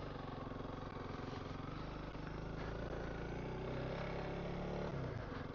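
Honda CRF300L's single-cylinder four-stroke engine running steadily at low speed. Its pitch climbs a little in the second half and drops back near the end.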